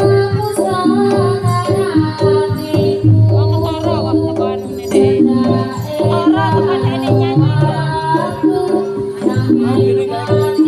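Traditional Javanese music for a Samboyo dance: busy drumming under a steadily held note, with a wavering melody line and singing above it.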